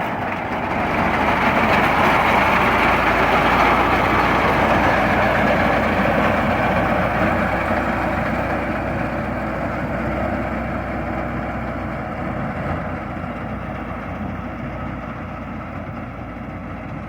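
Massey Ferguson 260 Turbo tractor's diesel engine running. It starts suddenly, is loudest a few seconds in, then slowly fades.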